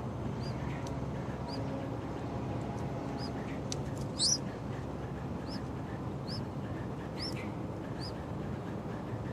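Yellow-vented bulbul nestlings calling: short high chirps repeating about once a second, with one louder, higher rising call about four seconds in.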